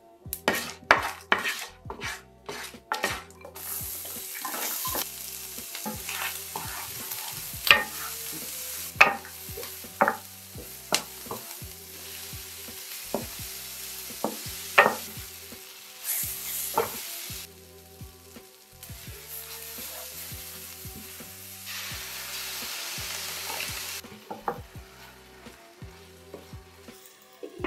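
Whole spices crackling with quick sharp pops in hot oil in a nonstick sauté pan. Then food sizzles steadily while a wooden spoon stirs it, with scattered sharp knocks of the spoon against the pan.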